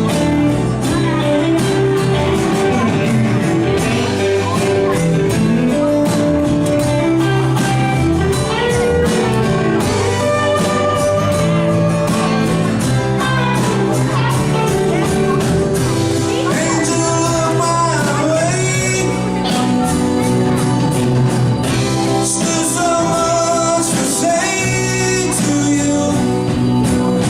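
Live rock band playing a song with a sung vocal line over a steady drum beat.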